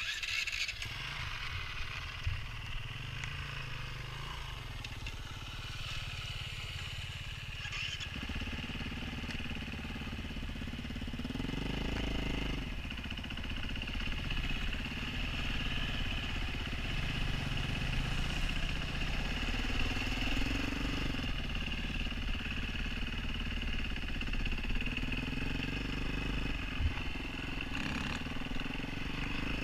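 Dirt bike engine running as the bike is ridden, heard through a helmet-mounted camera. The engine revs up in pitch a few times.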